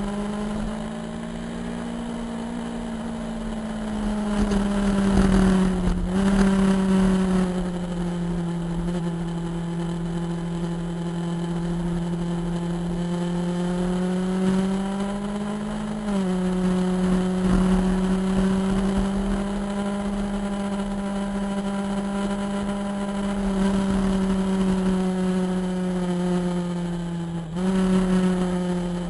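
Motorcycle engine running steadily at cruising speed with wind noise. The engine note changes abruptly three times, about 6, 16 and 27 seconds in, as with throttle or gear changes.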